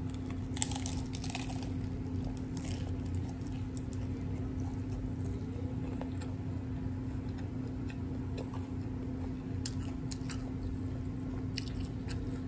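Close-up chewing and crunching of a hard spicy jalapeño cheddar taco shell, with crisp crunches clustered about half a second in and again near the end, over a steady low hum.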